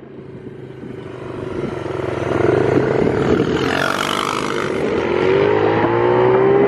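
Dirt bike engine accelerating, growing louder over the first couple of seconds as it comes closer, its pitch climbing steadily through the second half as it picks up speed.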